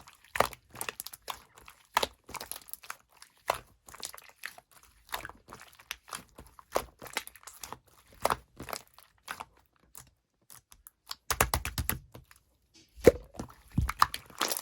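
Sky-blue 'pongdang' slime being squeezed and kneaded by hand, making irregular sticky clicks and pops, with a quick flurry of pops and soft thuds near the end.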